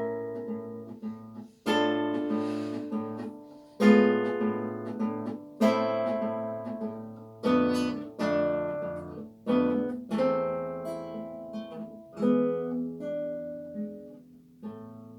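Classical guitar played solo: a slow series of full, strummed chords, each struck sharply and left to ring out, the last one fading away near the end.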